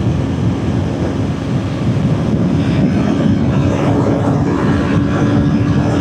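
Kawasaki Ninja 400's parallel-twin engine running at a steady highway speed, an even drone mixed with heavy wind and road noise.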